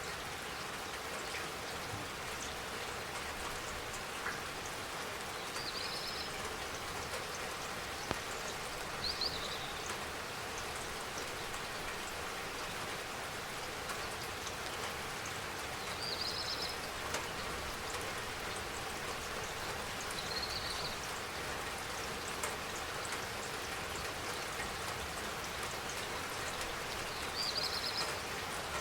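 Steady spring rain falling, a dense patter of raindrops. Short high chirps come through it every few seconds.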